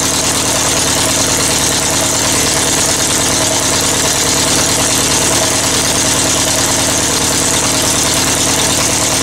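Air-cooled VW 1600 dual-port flat-four engine on a test stand, running steadily at idle shortly after a cold start. The engine runs fairly well, but its carburetor is not yet working correctly.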